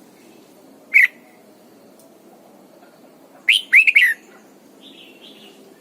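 Red-whiskered bulbul singing: one sharp note about a second in, then a quick, loud phrase of four or five notes past the three-and-a-half-second mark, with a couple of faint notes after it.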